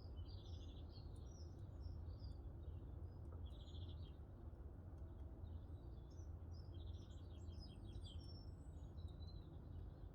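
Small songbirds chirping and giving short fast trills, several calls overlapping, over a steady low rumble, with a few faint ticks from the crackling wood-stove fire.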